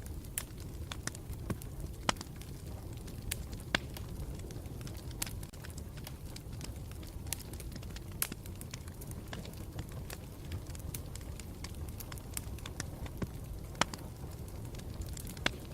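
Campfire burning with a steady low rumble and irregular sharp crackles and pops scattered throughout, a few louder ones standing out.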